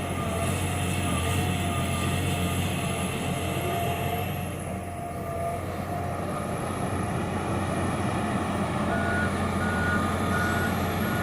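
John Deere 350G LC excavator's diesel engine running steadily. From about nine seconds in, a reversing alarm beeps about twice a second.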